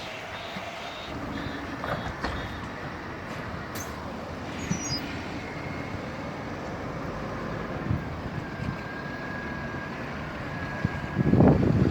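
Windstorm wind over a steady outdoor rumble. About eleven seconds in, a strong gust buffets the microphone.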